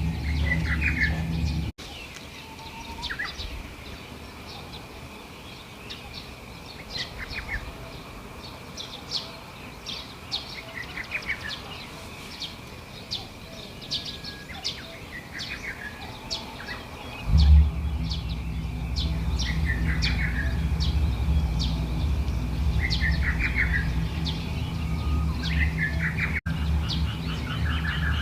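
Small birds chirping, with many short calls repeated again and again over a faint steady high tone. A low steady rumble runs for the first couple of seconds and comes back about two-thirds of the way through, louder than the birds.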